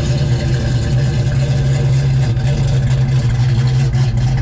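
Built naturally aspirated Ford Mustang 5.0 V8 idling steadily during a cold start.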